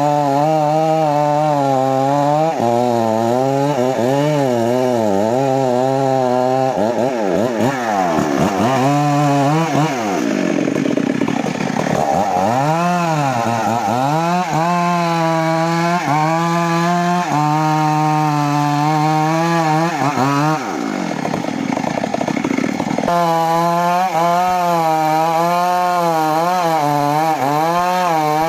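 Stihl two-stroke chainsaw running hard while cutting gembilina (gmelina) wood. Its engine pitch wavers up and down continuously as the chain bites and the throttle is worked, and drops deeply twice in the first half.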